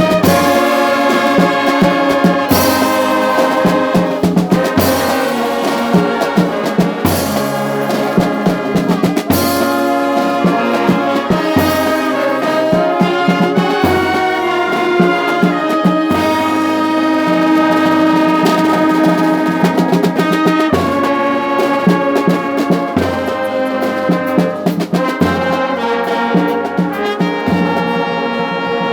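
Brass band playing: trumpets and trombones hold sustained chords over a bass line, with a drum hit marking the beat about every two seconds.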